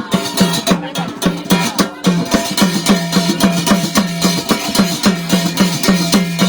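Instrumental interlude of Garhwali jagar folk music: a fast, steady drumbeat with other instruments and no singing.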